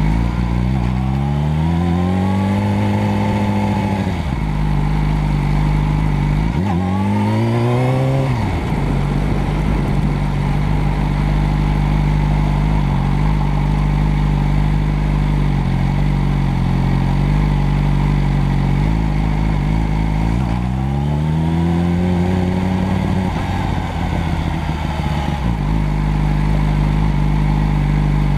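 Motorcycle engine idling steadily and revved three times: a held rev that rises and falls in the first few seconds, a quick sharp blip at about seven seconds, and another slower rise and fall about two-thirds of the way through.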